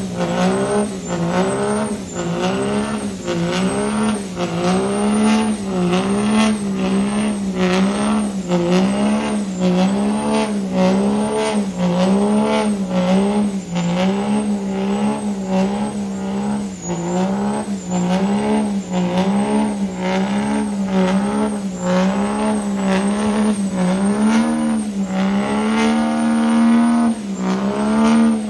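A diesel truck engine run hard at high revs, its engine speed surging up and down about once a second, with a high turbo-like whine rising and falling along with it; near the end the revs hold steadier and a little higher.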